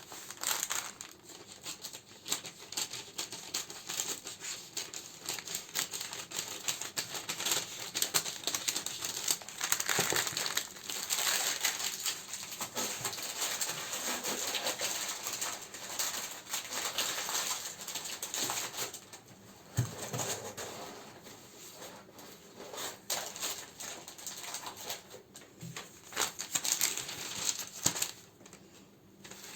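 Plastic and paper candle wrappings crinkling and rustling as they are handled, made up of many small crackles and taps. It quietens for a few seconds about two-thirds through and again near the end.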